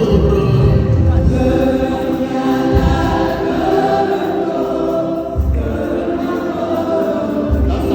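A group of voices singing together like a choir, with deep thumps about every two and a half seconds underneath.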